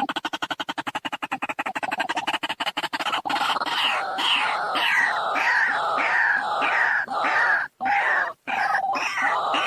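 White-breasted waterhen calling: a fast run of short clucking pulses, then from about three seconds in a loud series of repeated calls, about two a second, broken by short pauses near the end.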